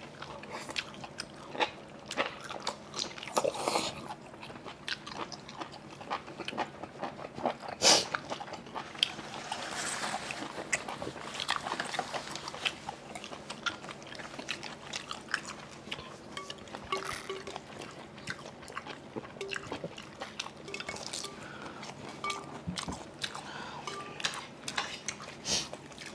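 Close-miked eating sounds: biting into and chewing steamed seafood, with many short clicks scattered throughout.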